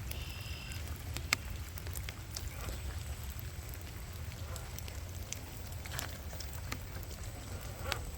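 Rain falling, with scattered ticks of drops striking close by over a steady low rumble. One sharper tick comes about a second in.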